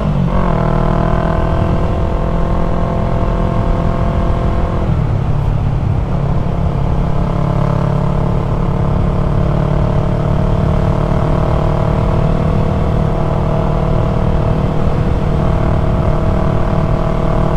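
Yamaha MT-03's 321 cc parallel-twin engine running under way through an aftermarket full-system exhaust. The engine note drops just after the start, changes about five seconds in, then holds steady and slowly climbs.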